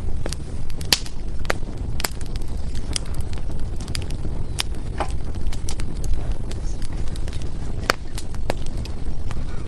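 Firewood burning in a fireplace, crackling irregularly with sharp pops, a few of them much louder than the rest, over a low steady rumble of the flames.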